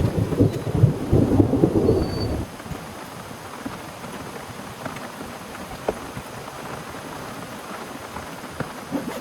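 A thunder clap rumbling for about two and a half seconds at the start, then steady rain with scattered drops ticking.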